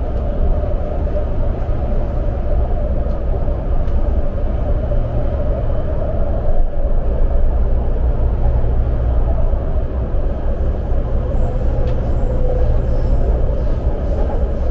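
A BART train running at speed, heard from inside the car: a loud, steady low rumble with a wavering whine over it.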